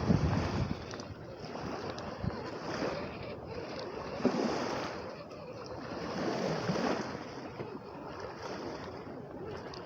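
Lake waves washing in on the shore, surging about four and six and a half seconds in, with wind gusting on the microphone.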